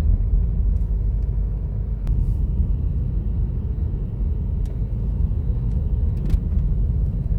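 Steady low rumble of a car driving, road and engine noise heard from inside the cabin, with a few faint light clicks.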